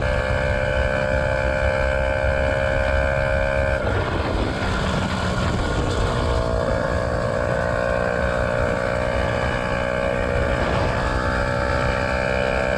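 Yamaha R125's single-cylinder four-stroke engine running at a steady, loud pitch through an aftermarket Black Widow exhaust with the dB killer removed, over wind rumble on the microphone. The note breaks up about four seconds in and returns steady a couple of seconds later.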